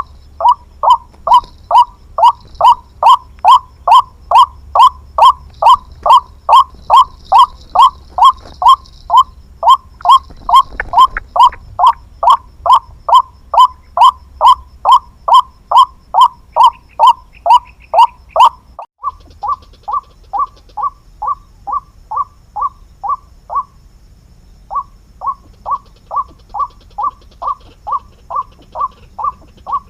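Ruak-ruak call of a white-breasted waterhen: one note repeated about two and a half times a second, loud and very even. A little past halfway it drops suddenly in level and sounds thinner, and near the end it breaks off for about a second, then resumes.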